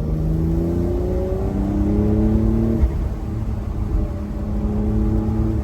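Porsche 992.2 Carrera's turbocharged flat-six accelerating in pulls. The pitch climbs, drops at an upshift about a second in, climbs again to a second shift near three seconds, then rises again near the end, over a steady low road rumble.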